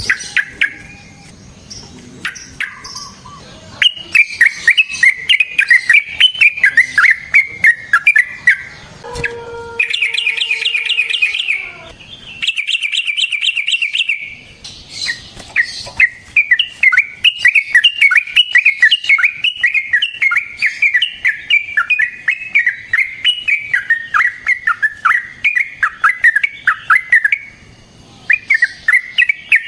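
Yellow-vented bulbul singing long, rapid rolling runs of bubbly chattering notes. A brief change to a buzzier, steadier trill comes about a third of the way in, and a new run starts near the end.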